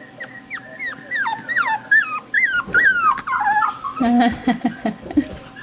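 Four-week-old Cockapoo puppies whimpering: a quick run of short, high cries that slide down in pitch, then lower, rougher whines and grumbles about four seconds in.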